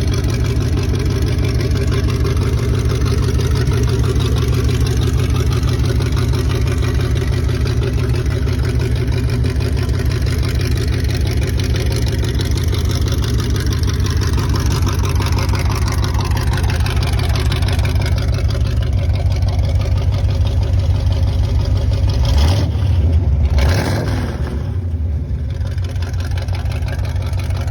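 Hot rod engine running with a loud, pulsing exhaust. The engine speed changes through the middle, and the sound shifts about 22 seconds in, after which it runs slightly quieter.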